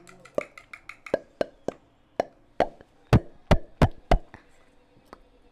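A series of about a dozen short, sharp taps or knocks, irregularly spaced, growing louder toward the middle, with the loudest about three to four seconds in.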